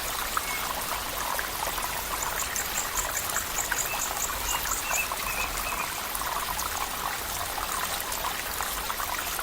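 Shallow water flowing and trickling in a steady, even rush. Near the middle comes a quick run of about a dozen high-pitched chirps, about four a second.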